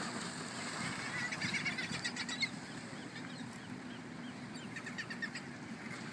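Seabirds calling in quick runs of short high notes, twice, over a steady low wash of water and wind.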